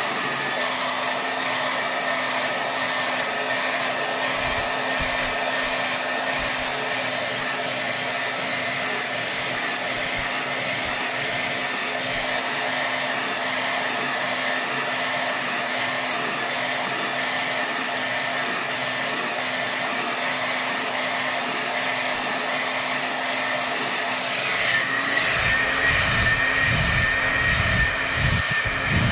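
Hair dryer blowing at full power: a steady rush of air with a motor whine. Near the end the whine shifts in pitch and it grows louder, with low, gusty rumbles.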